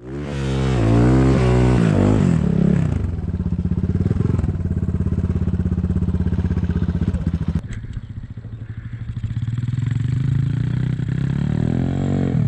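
Enduro motorcycle engine running under way: it revs up and down in the first couple of seconds, then holds a steady pull, eases off for a couple of seconds past the middle and revs up again near the end.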